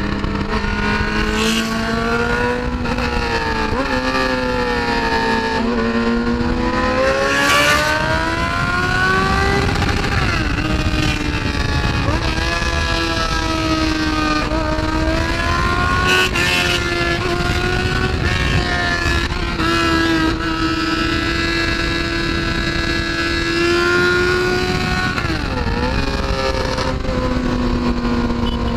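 Motorcycle engine under way, its pitch rising and falling with the throttle and dropping sharply a few times, as at gear changes. Steady wind rush on the microphone runs under it.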